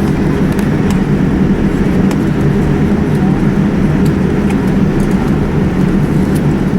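Steady, loud low rumble inside the cabin of a Boeing 787-9 airliner: engine and airflow noise, holding an even level.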